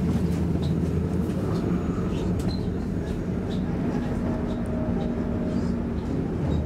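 Electric commuter train running at speed, heard from inside the passenger car: a steady low rumble and hum, with scattered light clicks and rattles.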